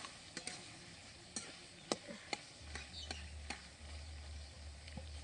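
Irregular sharp clicks and knocks of a utensil against a cooking pot as a curry is stirred, about half a dozen over a few seconds. A low hum comes in about halfway.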